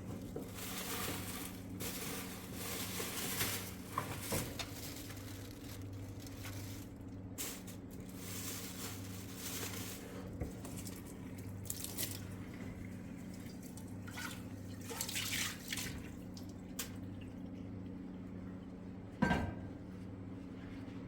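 Water pouring and dripping in irregular spells over a steady low hum, with a sharp knock near the end.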